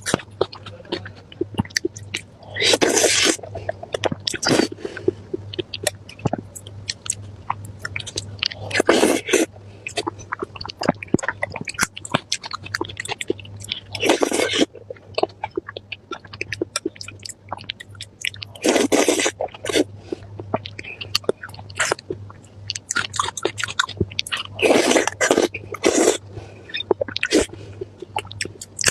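Close-miked eating: steady wet chewing with small mouth clicks, broken about every five seconds by a louder crunchy bite.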